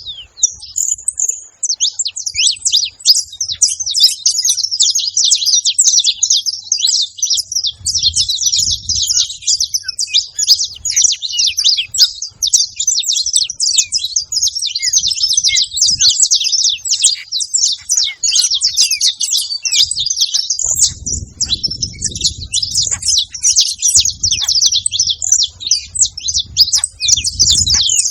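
Saffron finch singing: a long, dense run of rapid, high chirps and trills with only a short break about a second in.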